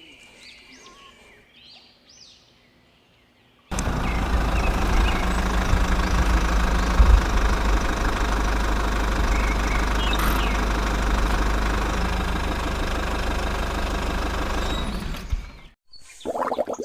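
A small engine running steadily, starting suddenly about four seconds in and cutting off abruptly near the end. Before it, faint bird chirps.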